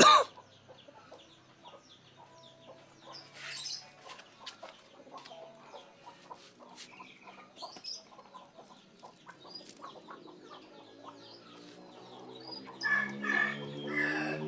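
Chickens clucking, with scattered faint clicks and short calls, louder near the end. A low steady drone comes in about two-thirds of the way through and slowly rises in pitch.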